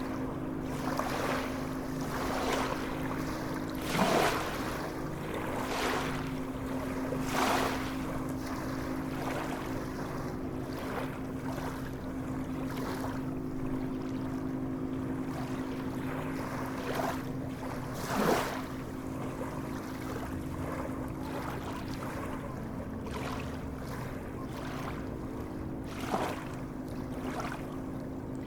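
Sea waves washing and splashing, with several louder splashes a few seconds apart, over continuous water rush and a steady low hum.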